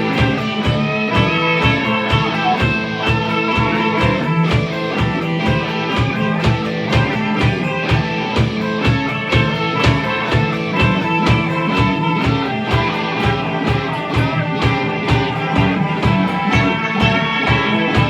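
Instrumental break of a rock song: electric guitars playing over a steady drum beat, with no singing.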